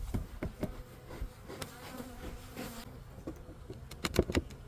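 Honey bees buzzing steadily around an open nucleus hive, with scattered clicks and a cluster of louder knocks about four seconds in.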